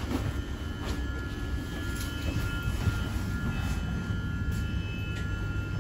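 Steady low rumble inside an electric commuter train carriage, with several level, high whining tones from the train's electrical equipment over it and a few faint clicks.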